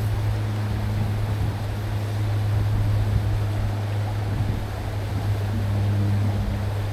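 Mountain stream water rushing, a steady noise with a steady low hum under it.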